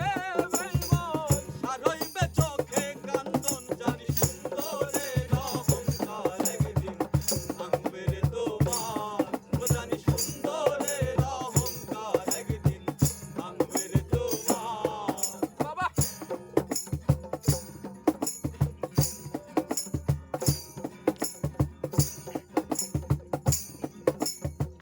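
Instrumental break of a Bengali folk song: a melody instrument playing sliding, ornamented phrases over a steady hand-drum beat with a shaker or jingles on the strokes. About two-thirds of the way through the melody stops, leaving only the drum and shaker rhythm.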